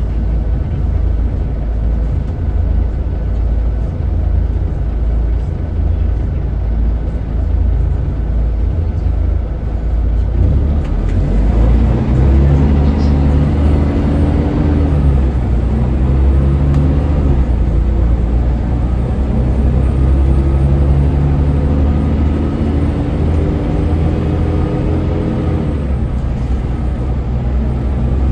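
Scania L94UB city bus's 9-litre five-cylinder diesel engine. It drones low at first, then about eleven seconds in it pulls away under load, its pitch rising and dropping back in steps as the automatic gearbox shifts, before easing off near the end.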